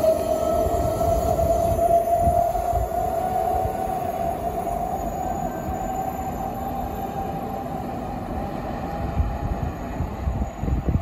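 Electric passenger train pulling away along the track: a rumble of wheels on rails under a steady high whine that edges slightly up in pitch, the whole sound fading gradually as the train recedes.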